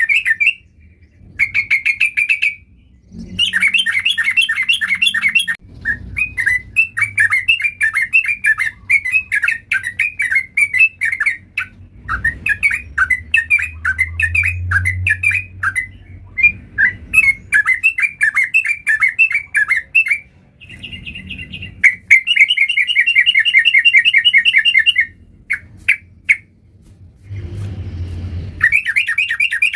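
Yellow-vented bulbul (trucukan) singing in long bouts of rapid, chattering notes, several seconds at a time with short pauses between, a low rumble under the song twice.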